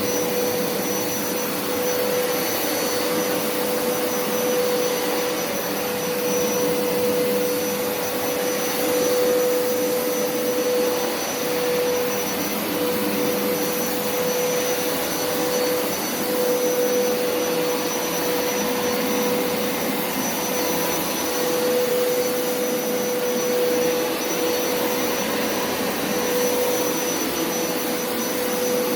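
Hoover upright carpet washer running steadily, its motor giving one held whine over a rushing air noise.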